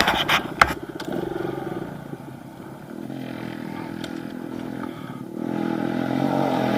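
Pit bike engine running as it is ridden, with a few clattering knocks in the first second; the engine drops back, then builds up louder over the last second and a half.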